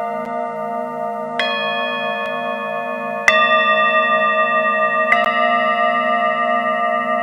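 Singing bowls struck one after another, three strikes about two seconds apart, each adding a new ringing tone over the ones still sounding, with a slow wavering pulse in the low hum beneath.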